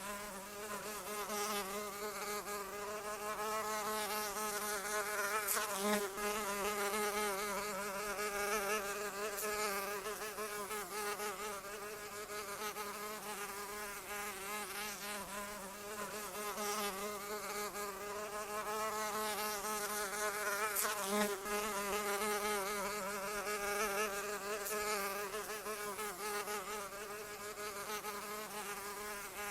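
A flying insect's wings buzzing without a break, a steady drone whose pitch wavers up and down, swelling a little louder twice.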